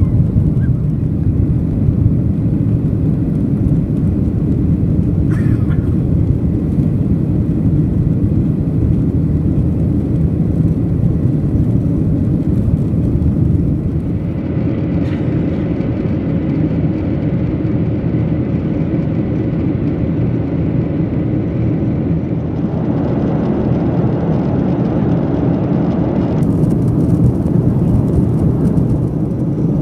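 Steady in-flight cabin noise of a Boeing 737-800, a mix of airflow and the CFM56-7B turbofan engines, heard from a passenger seat. The higher hiss thins out about halfway through and comes back near the end.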